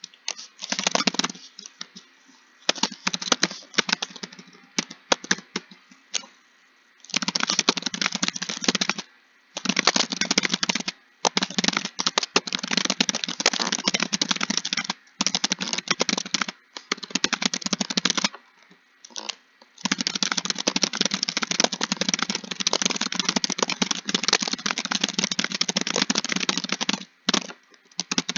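Rapid typing on a computer keyboard: dense runs of key clicks lasting from about a second to several seconds, broken by short pauses, the longest run near the end.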